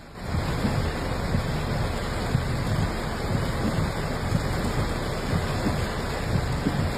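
Heavy rain pouring down steadily during a thunderstorm, with a low, uneven rumble underneath. The rain comes in just after the start.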